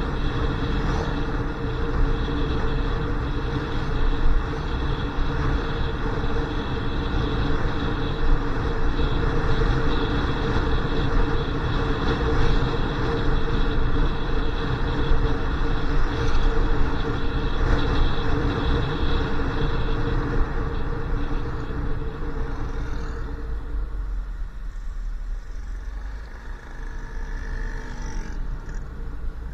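Motorcycle on the move: engine running at a steady pitch under a broad rush of wind and road noise. It quietens for the last several seconds.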